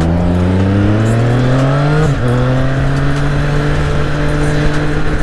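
Triumph Street Triple R's inline three-cylinder engine accelerating, its pitch rising steadily, then dropping briefly about two seconds in as it shifts up a gear, after which it runs at a steady pitch.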